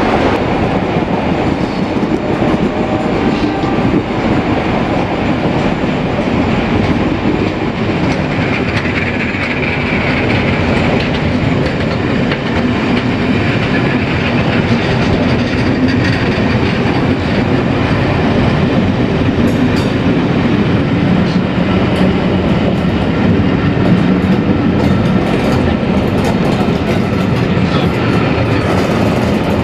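A train passing close by for the whole stretch, its wheels clattering steadily over the rails.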